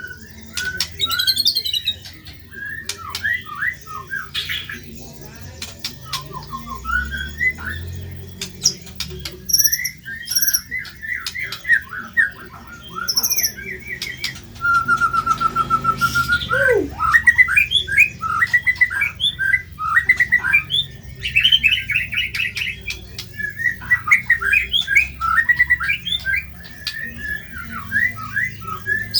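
White-rumped shama (murai batu) singing a fast, varied song of chirps, whistles and harsh notes, with one held whistle about halfway through that ends in a sharp falling sweep.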